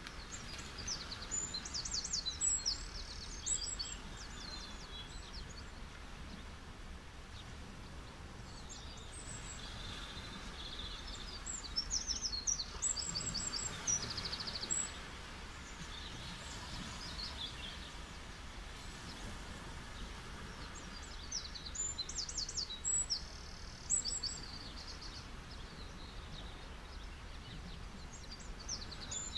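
Small birds chirping and trilling in three bouts about ten seconds apart over a steady wash of beach waves.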